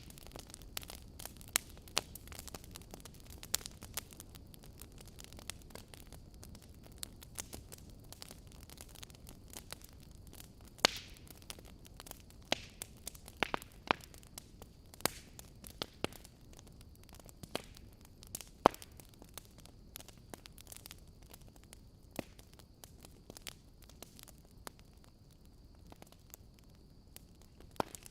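Wood fire crackling in a fireplace: irregular sharp pops and snaps over a faint low rumble of burning, with a few louder pops scattered through.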